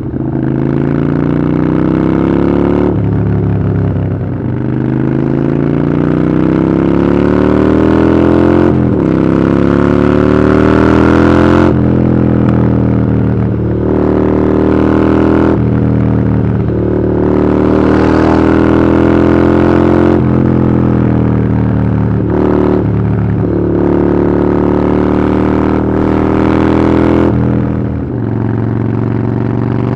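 Harley-Davidson Iron 883's air-cooled V-twin running through a Vance & Hines exhaust while riding. The engine pitch climbs under acceleration and drops at gear changes about three, nine and twelve seconds in, then holds steadier with brief dips as the throttle is eased.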